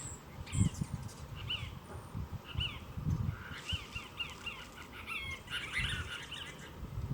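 Cassin's kingbird calling: short, sharp, chattering notes, a quick run of them about halfway through and a denser burst of chatter near the end. Low thumps sound underneath.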